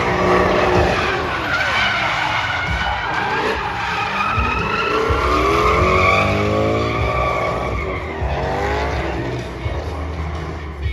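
Drift cars sliding, their engines revving up and down over long tyre squeal.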